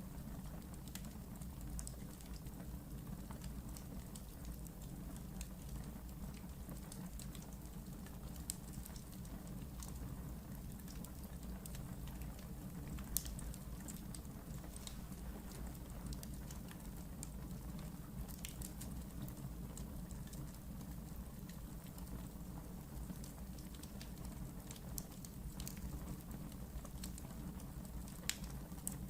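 Wood fire burning in a fireplace: a low steady rumble of flames with irregular crackles and snaps, and a few louder pops, one about halfway through and one near the end.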